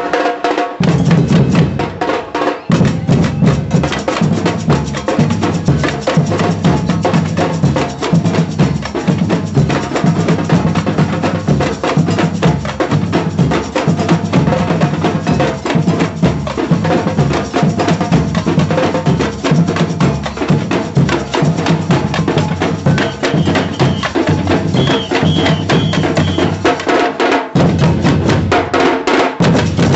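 A street drum band playing a fast, steady rhythm, with bass drums and sharp clicking strokes, breaking off briefly near the end and starting again.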